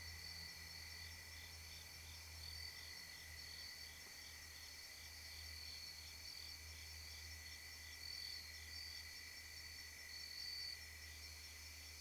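Faint outdoor insect chorus: a steady high trill with a softer pulsing chirp repeating through it, over a low steady hum.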